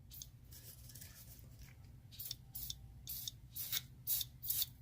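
Short squirts of PB Blaster penetrating oil from an aerosol can onto rusted exhaust bolts. The squirts are a series of brief hisses about half a second apart, starting about two seconds in.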